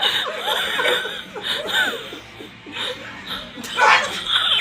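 People talking and laughing, with chuckles and snickers, quieter in the middle and louder again near the end.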